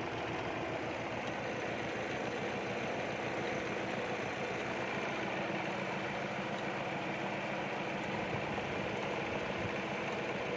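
Kubota L5018 tractor's diesel engine running steadily, driving a belt-and-pulley water pump off the PTO.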